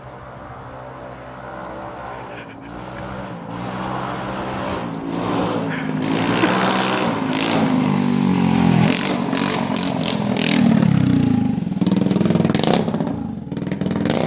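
Straight-piped Yamaha X-MAX 125 scooter's single-cylinder engine approaching and getting much louder. About halfway through, the engine note starts to rise and fall as the throttle is worked, with sharp crackles.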